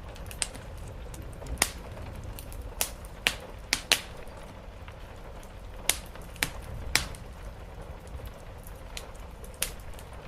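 Wood fire crackling in a fireplace, with a dozen or so sharp, irregular pops over a steady low rush of rain.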